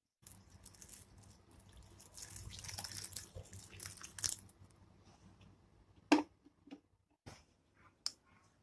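Kitchen handling noises during food preparation: a few seconds of rustling and crinkling, then several separate sharp knocks and clicks.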